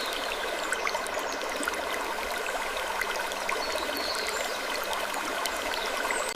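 Steady rushing noise like running water, sprinkled with small scattered ticks and clicks.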